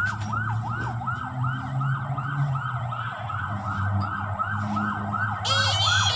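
Electronic yelp siren wailing up and down rapidly, about three cycles a second, over a low rumble; a short burst of high chirping cuts in near the end.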